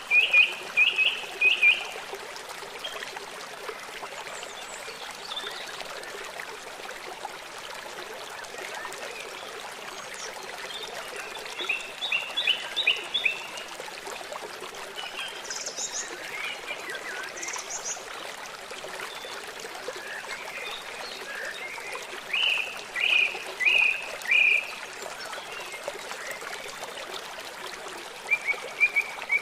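Running water rushing steadily, with birds calling over it in short series of quick repeated notes, several times over.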